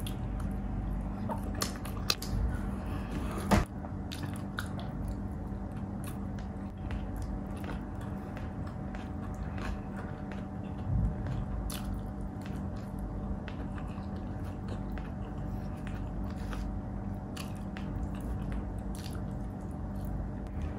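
Close-miked chewing and biting of saucy pork bistek eaten by hand, with many small wet mouth clicks throughout. A steady low hum runs underneath.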